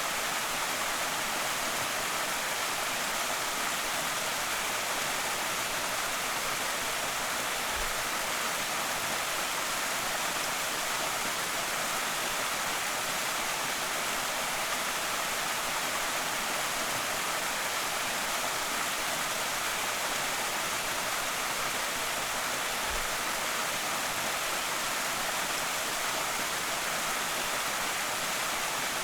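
Small waterfall on a creek, water pouring and splashing in a steady, even rush.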